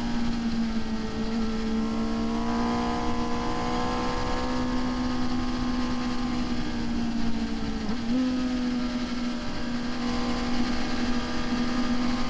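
Sport motorcycle's engine running at steady high revs under throttle through a corner, with wind rush. About eight seconds in the engine note briefly dips and breaks, then carries on at a steady pitch.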